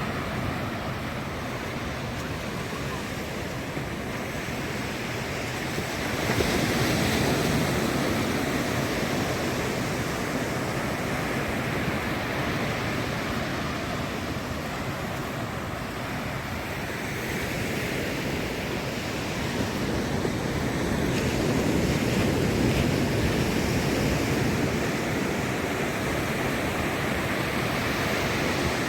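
Ocean surf breaking and washing up the beach in a continuous hiss, swelling louder as a wave comes in about six seconds in and again for a longer stretch from about twenty-one seconds.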